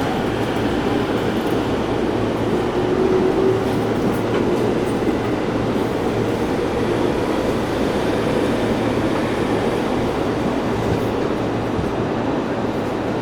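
Electric commuter train running between stations, heard from inside the passenger car: a steady rumble of wheels on the rails and running noise, with no marked changes.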